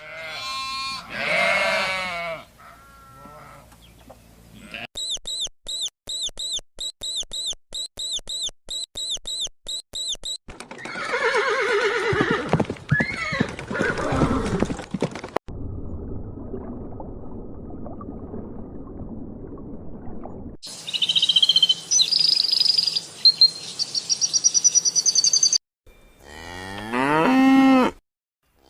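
A run of short animal-call recordings cut one after another: a falling call, then a fast string of high chirps at about two a second, low falling moans, a stretch of rushing noise, high wavering whistles, and a rising call near the end.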